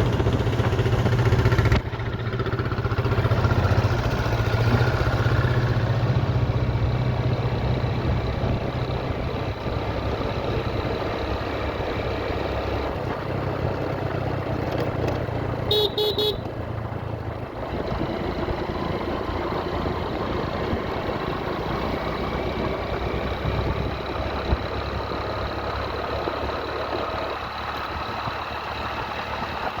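Motorcycle engine running under way, with road and wind noise around it. A short series of horn beeps sounds about halfway through.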